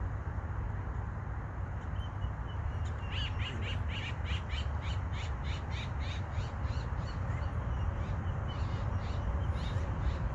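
A bird calling in a fast series of short, sharp notes, about three or four a second, starting about three seconds in and thinning out toward the end, over a steady low rumble.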